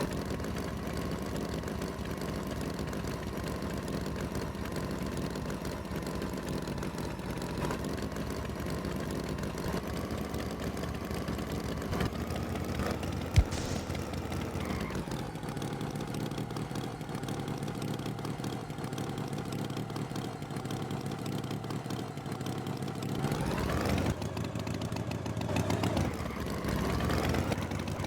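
An engine idling steadily and revving up twice near the end, with one sharp click about halfway through.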